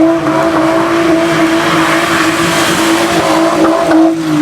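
A car doing a burnout or donuts: tyres squealing over an engine held at high revs in one long steady note, which stops about four seconds in.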